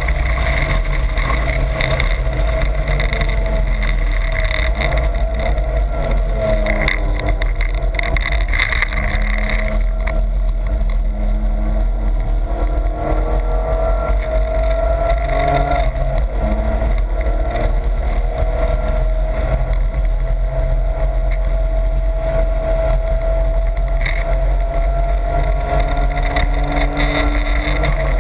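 BMW's engine running hard on track, heard from inside the cabin: a steady loud drone whose pitch rises and falls as the driver changes throttle and gears.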